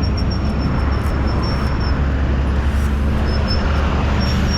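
Steady motor-vehicle traffic noise: a continuous low rumble of road vehicles, with a thin high whine that comes and goes.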